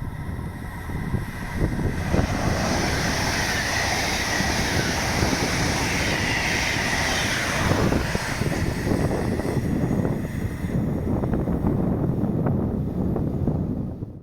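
A train passing, a steady rumble and rush with a brighter hiss from about two seconds in until about eleven seconds, over wind buffeting the microphone.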